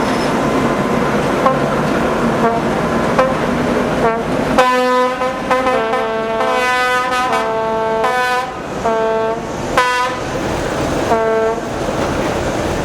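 Diesel shunting locomotive running with a steady rumble and occasional clicks. From about five seconds in, a string of short, brass-like horn notes at several different pitches sounds over it, about a dozen, and ends shortly before the close.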